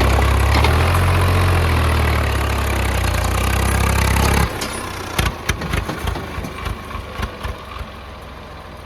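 Heavy diesel engine running steadily with a deep low drone. It cuts off abruptly about four and a half seconds in, leaving scattered knocks and thuds at a lower level.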